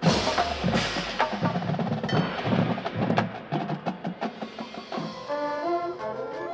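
Marching band playing: a loud full-band hit, then a busy passage of drums and percussion, with sustained wind and brass notes carrying a melody from about five seconds in.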